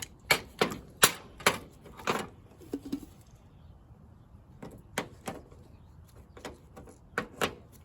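A string of sharp, irregular clicks and knocks of hard tools and parts being handled, several in quick succession, a pause of about a second and a half, then another run of knocks.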